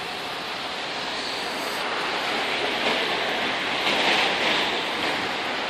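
Steady hiss of rain, swelling briefly about four seconds in.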